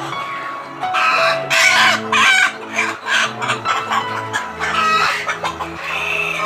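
Kampung chickens clucking, with a rooster crowing, over background music with sustained low notes.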